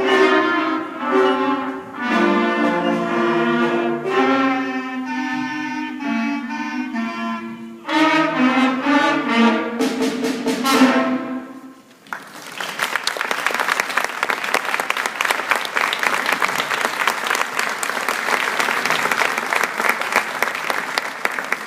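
A school concert band of brass and woodwinds playing the last bars of a piece; the music stops about twelve seconds in and the audience breaks into steady applause.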